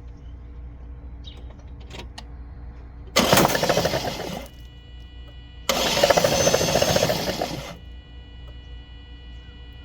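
Starter cranking a Lexus IS 200's straight-six engine in two bursts of one to two seconds. With its spark plugs out it spins over without firing, blowing the foam carburettor cleaner and loosened carbon out through the plug holes.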